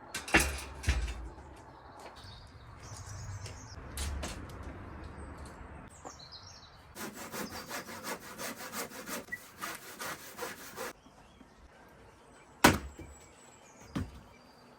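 Wood being sawn by hand: a run of quick back-and-forth saw strokes lasting about four seconds midway, with a few sharp knocks of wood before and after.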